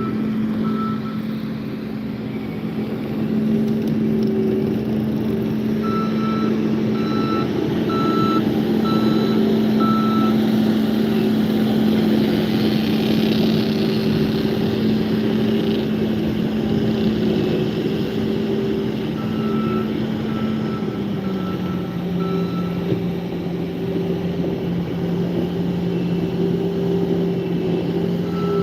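Engine running steadily with a backup alarm beeping in runs, about three beeps every two seconds, as a vehicle reverses. The engine drone drops slightly in pitch about two-thirds of the way through.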